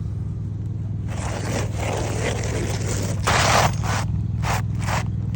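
Asphalt roofing shingles scraping and rustling against each other as they are handled and slid into place, in a string of rough strokes with the loudest about three and a half seconds in.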